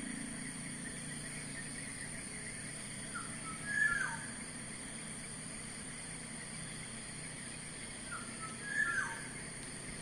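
A bird giving the same short call twice, about five seconds apart: a couple of brief notes, then a louder note that slides steeply downward.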